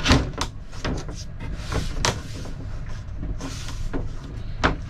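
Wooden knocks and scraping as a marine plywood panel is handled and pushed into place for a test fit, with a handful of sharp clacks, the loudest right at the start.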